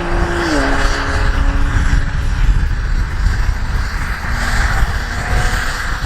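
AgustaWestland AW109S Grand New helicopter's twin Pratt & Whitney PW207C turboshaft engines running during startup, with heavy wind rumble on the microphone. A steady tone in the engine noise drops in pitch about half a second in.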